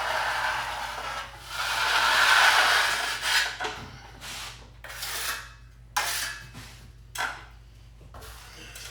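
A wide drywall knife scraping joint compound across a ceiling patch during a skim coat. One long stroke a couple of seconds in, then several shorter swipes.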